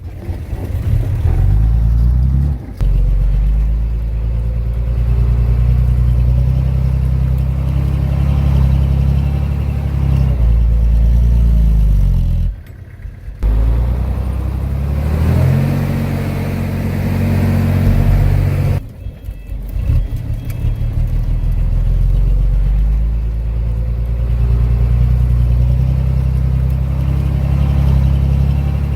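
Heavy diesel engine of earthmoving machinery working, its pitch rising and falling with the load. The sound breaks off abruptly three times, about 3, 13 and 19 seconds in.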